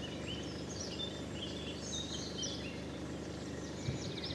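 Songbirds chirping and trilling in short irregular phrases over a steady background hiss, with a brief low thump near the end.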